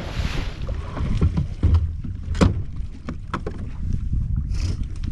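Water slapping against the hull of a fishing boat drifting on the lake, a steady low rumble with many small knocks. A sharper knock comes about two and a half seconds in.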